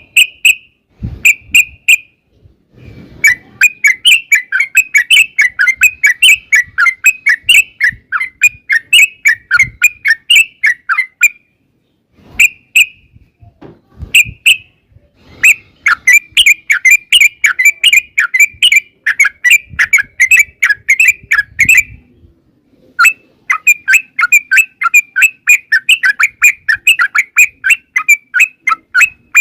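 Yellow-vented bulbul (trucukan) singing loud, rapid chattering phrases. There are a few short single calls, then three long rattling runs of quick notes, each several seconds long, with brief gaps between.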